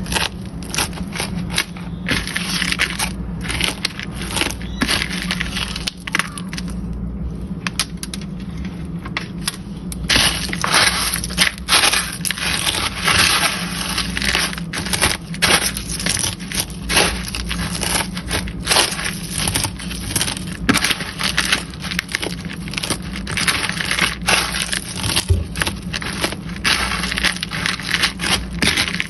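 Crushed cornflakes crunching and crackling as chicken strips are pressed into them, in many quick irregular crackles. There is a quieter stretch of a few seconds about six seconds in.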